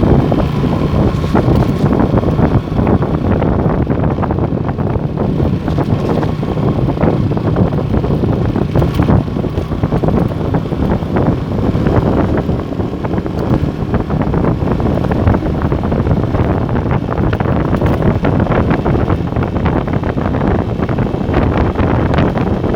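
Motorstar Star X 125 motorcycle running steadily under way, with heavy wind buffeting the microphone.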